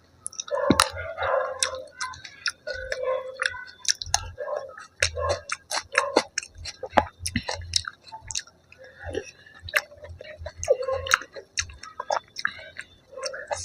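Close-miked chewing of food, with many sharp wet clicks and smacks of the mouth.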